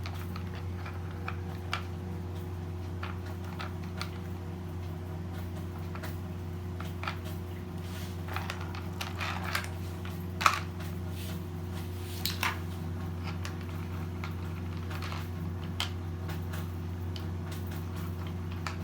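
Toy building blocks and a toy truck being handled, with scattered light clicks and clatters and one sharper knock about ten seconds in, over a steady low hum.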